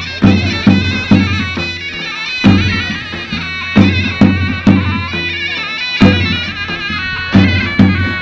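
Turkish folk-dance music: a shrill, reedy wind instrument plays a continuous melody over heavy, irregularly spaced drum beats.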